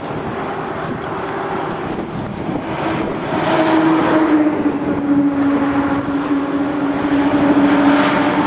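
Motor vehicle engine and road noise, with a steady drone that steps up slightly in pitch and loudness about three seconds in, then holds.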